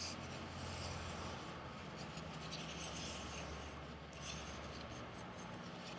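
Faint, intermittent scraping of a steel knife edge being worked during sharpening, over a low steady hum.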